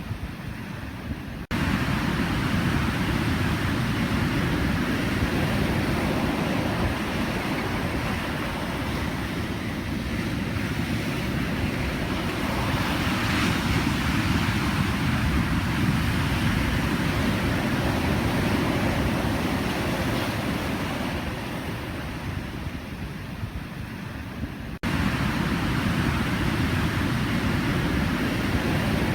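Pacific Ocean surf: waves breaking and washing in a continuous rush, swelling louder around the middle. The level jumps up abruptly about a second and a half in and again near the end, like splices in the recording.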